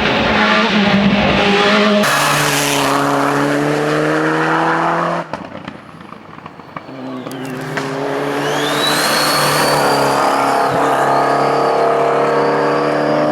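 Racing car engines at full throttle climbing a hill, revving up through the gears in several short cuts. A dip comes about 6 seconds in, then an engine picks up again with a high whine rising and wavering above it.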